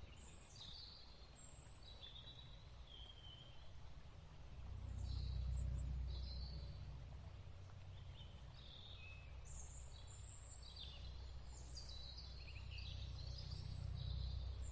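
Birds singing: many short, high chirps and trills scattered throughout, over a low rumble that swells about five seconds in and again near the end.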